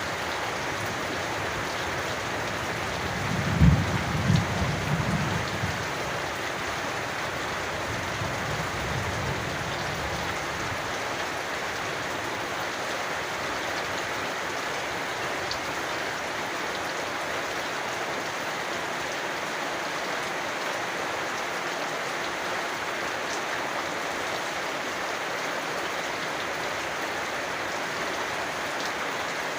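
Steady rain falling, with a low rumble of thunder about three and a half seconds in that dies away over a couple of seconds, and a fainter rumble a few seconds later.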